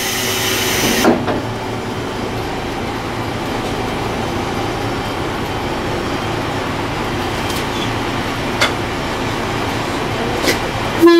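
Diesel railcar running, heard from inside the car: a steady low engine and running noise, with a short burst of hiss in the first second and a few sharp clicks near the end.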